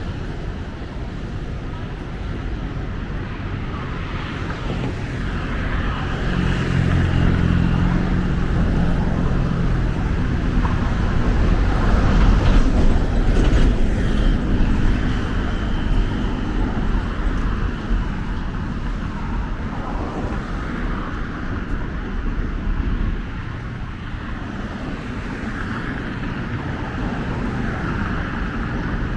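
Road traffic along a busy street, with one motor vehicle's engine rumbling past close by, loudest about twelve seconds in.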